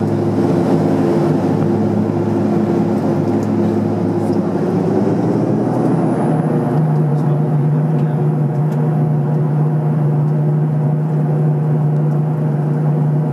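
Jetstream 41's twin Garrett TPE331 turboprop engines running with a steady droning tone. About five to seven seconds in, the pitch of the drone shifts and a high whine comes in.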